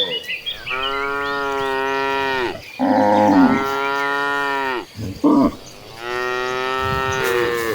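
Cattle mooing: three long, drawn-out moos, one after another with short pauses between them.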